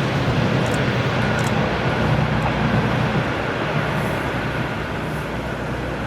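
Electric train running on the track, a steady low rumble that eases slightly toward the end.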